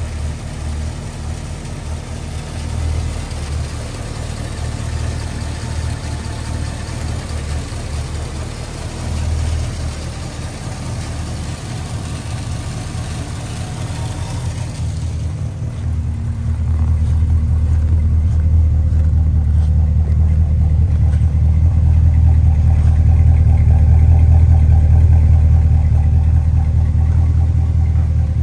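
1982 Holden VH Commodore's V8 engine idling steadily. It is heard first under the open bonnet, then from about halfway through at the twin exhaust tailpipes, where the low idle note is louder and deeper.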